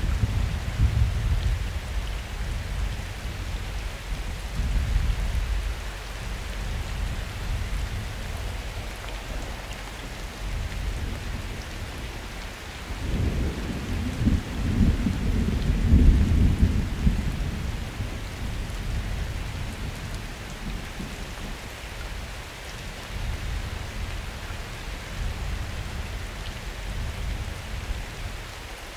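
Summer thunderstorm: steady rain hissing with low rolling thunder. A louder thunder rumble sets in about halfway through, swells for a few seconds and dies away.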